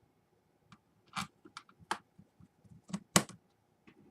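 Irregular sharp clicks and taps of a small plastic laptop being handled, the loudest two close together about three seconds in.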